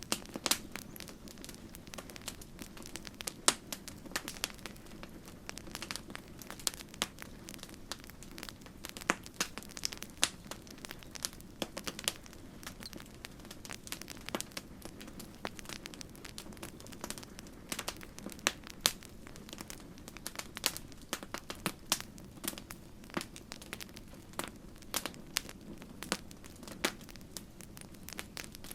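Campfire crackling: a steady low rush of burning wood with frequent irregular sharp pops and snaps.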